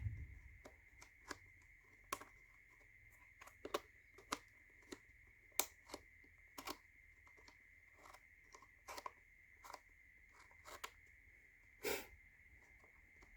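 Wooden tiles of a laser-cut slide picture puzzle box being slid around by hand, giving light irregular clicks and knocks as they move and butt against each other. A faint steady high whine sits underneath.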